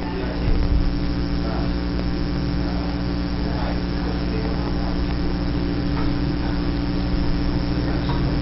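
Maytag MVWB850 top-load washing machine running: a steady motor hum with a few faint soft swishes on top.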